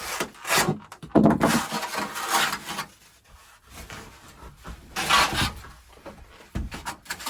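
Moore rafter vent being cut apart along its centre perforation with a knife. It gives rough scraping, rasping strokes: a short one, a long one lasting nearly two seconds, and another about five seconds in.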